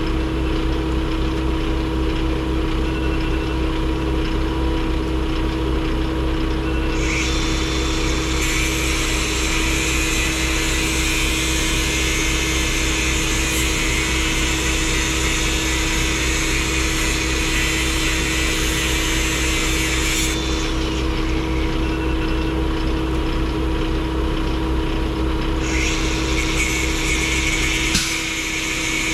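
A vehicle engine runs with a steady hum. A high hiss switches on about seven seconds in, cuts off around twenty seconds, and comes back near the end.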